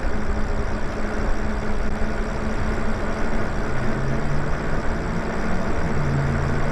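Riding noise from the Lyric Graffiti electric bike on the move: rushing wind and road noise with a steady hum under it, and a lower hum coming in about four seconds in.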